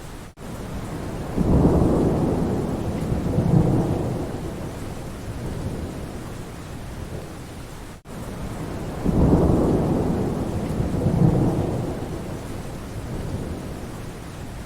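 Steady rain falling, with low rolling thunder swelling up twice, about a second in and again about nine seconds in. The sound drops out for an instant twice.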